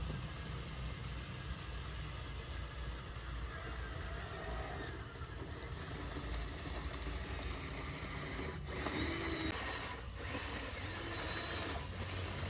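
Small electric motors and gearing of radio-controlled construction machines, whirring steadily.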